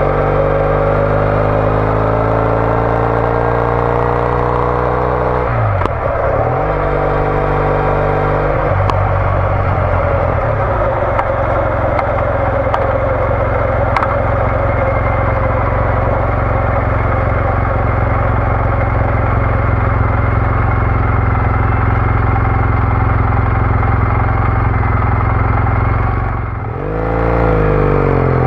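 Triumph Bonneville T214's 865 cc parallel-twin engine through an aftermarket TOGA exhaust, accelerating and shifting up twice in the first ten seconds, then running at a steady cruise. Near the end the throttle closes briefly and it pulls away again with rising revs.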